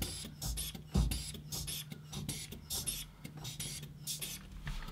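Hand pump bulb of a Winbag air wedge being squeezed repeatedly under a door, giving faint, irregular clicks and puffs of air, several a second, over a steady low hum.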